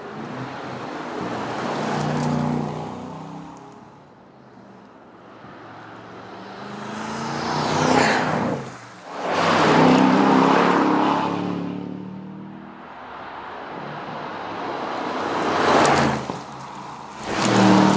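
Aston Martin DBX 707's twin-turbocharged 4.0-litre V8 under acceleration, driving past several times. Each pass swells and fades, and the loudest comes about halfway through.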